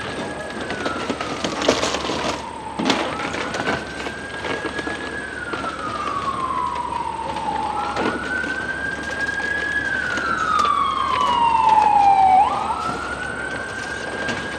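Emergency vehicle siren on a slow wail, climbing quickly then sliding slowly down in pitch about every four to five seconds, loudest near the end of the third cycle. A few sharp knocks sound over it.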